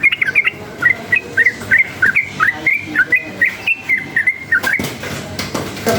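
Trucukan (yellow-vented bulbul) singing a quick run of short, bubbly whistled notes, about three a second, which stops about five seconds in.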